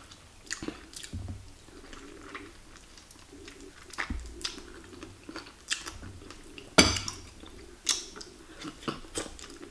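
Close-up eating sounds of a person chewing and sucking on a chicken foot: wet mouth smacks and clicks at irregular intervals, with a sharper click about seven seconds in and another about a second later.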